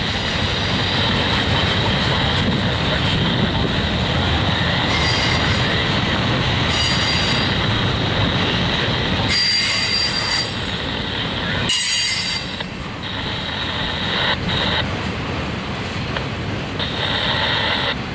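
Autorack freight cars rolling past on the rails with a steady rumble of wheels on track, and a high-pitched wheel squeal that flares up several times.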